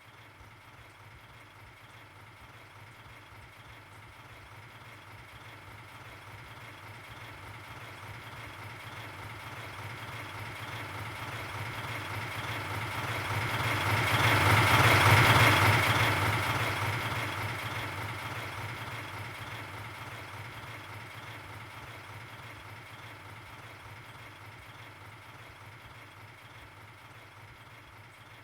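Diesel locomotive approaching and passing at a railroad crossing without sounding its horn. The engine grows steadily louder to a peak about halfway through, then fades as it moves away.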